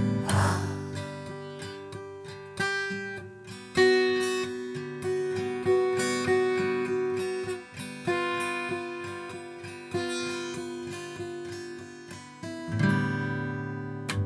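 Acoustic guitar played alone, notes picked and left to ring, with strums near the start and near the end.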